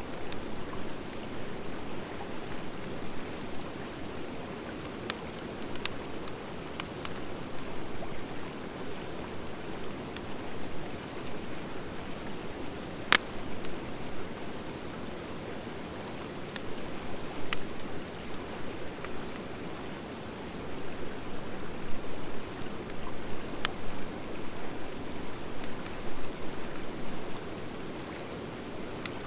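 Wood fire of driftwood and dry hardwood burning steadily, with sharp scattered crackling pops, the loudest about halfway through, over a steady rushing hiss.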